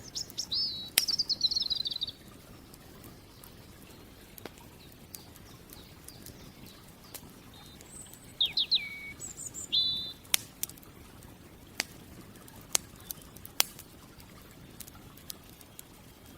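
Songbirds singing in short high chirps and trills, a warbled phrase right at the start and a few more calls around the middle, over the scattered sharp pops and crackles of a campfire.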